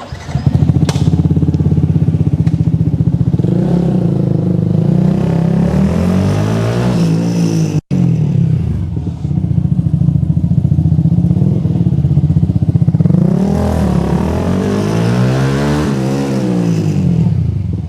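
Yamaha M-Slaz's single-cylinder 150cc engine running through an aftermarket Akrapovic-style slip-on exhaust, its revs rising and falling twice. There is a brief break in the sound about eight seconds in.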